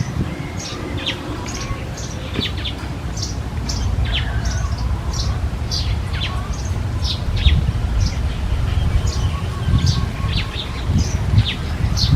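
Small birds chirping, short high notes that fall in pitch, several a second and overlapping, as from more than one bird, over a steady low rumble.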